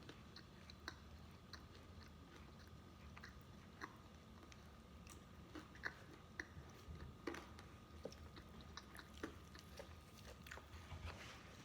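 Faint close-miked chewing and biting of fried chicken: scattered small crunches and wet mouth clicks, a little busier near the end.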